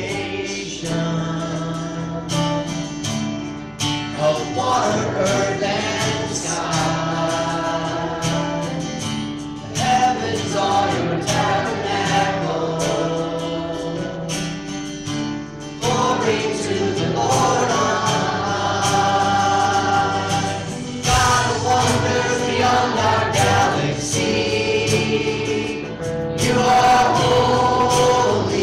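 Congregational or choir singing of a hymn with mixed voices, sung in phrases of several seconds over a steady instrumental accompaniment.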